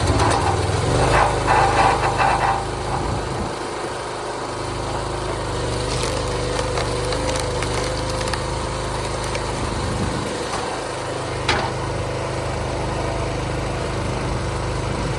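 A small engine starts up and runs steadily, with loud clattering in the first couple of seconds.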